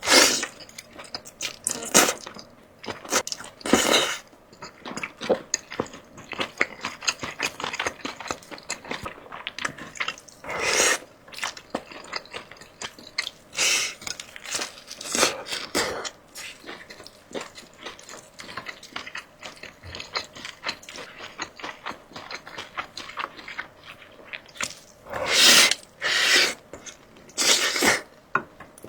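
A person eating close to the microphone: steady chewing with louder bursts of eating noise every few seconds, and a cluster of four bursts near the end.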